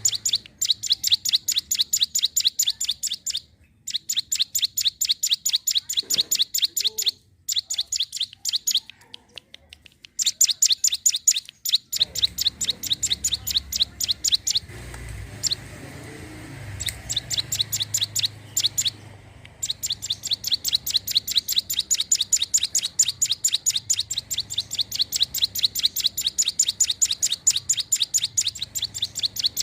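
Female ciblek gunung (a prinia) calling persistently: a fast, even series of sharp high chirps, about five a second, in runs broken by short pauses, then unbroken for the last ten seconds.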